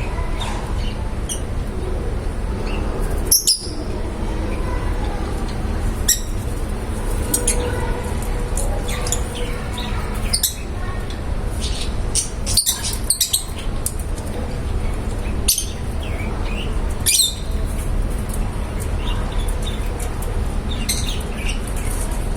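Small pet parrots (love birds) giving short, sharp chirps every few seconds, a quick cluster of them near the middle, over a steady low rumble.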